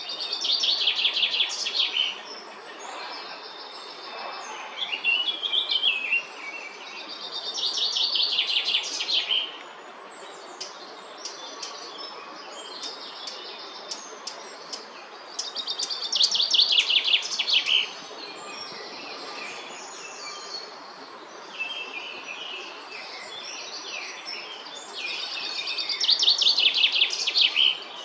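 Grey heron fledglings calling in four bursts, each about two seconds of rapid repeated ticking calls, coming roughly every eight seconds. Quieter calls from other birds and a steady outdoor hiss sit between the bursts.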